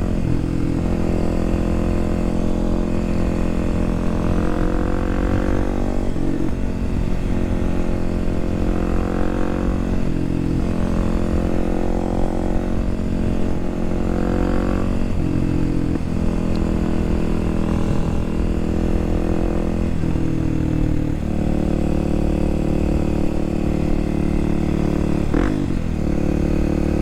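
Kawasaki KLX300SM's single-cylinder engine under way, pulling up in pitch and dropping at each gear change, again and again. In the last seconds it holds a steady pitch, broken by one quick rev blip near the end. Wind rush runs underneath.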